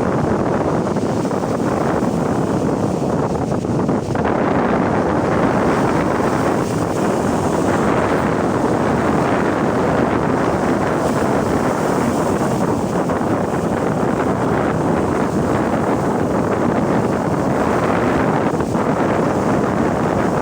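Sea waves washing in a steady rush, with wind buffeting the microphone.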